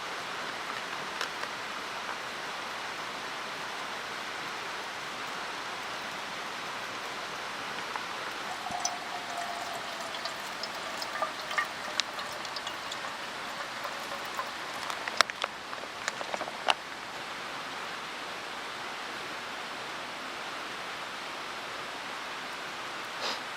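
Steady rushing of a mountain stream, with a scattering of sharp clicks and taps about a third of the way in and again past the middle.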